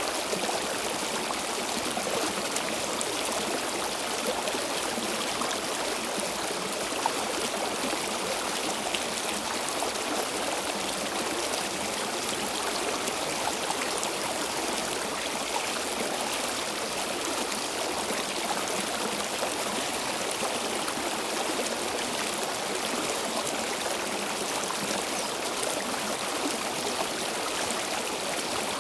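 Stream water flowing steadily over stones, a continuous rushing with light trickling and splashing.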